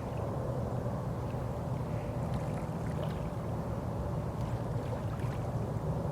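Boat under way on the water: a steady low motor drone with the wash of water.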